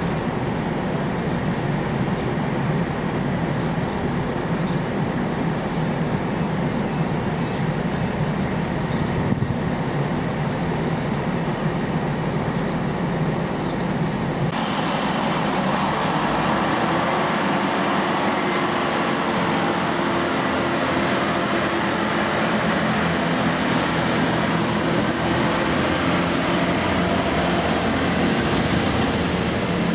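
Diesel multiple-unit passenger train running on the line, a steady rumble. About halfway through it cuts abruptly to a different recording of train sound, with faint steady tones and a faint rising high whine.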